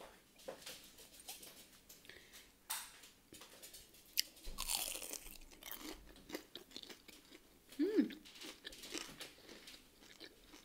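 Close-miked chewing and crunching of a breaded chicken strip, with bites and wet mouth sounds, the crunching loudest about four to five seconds in.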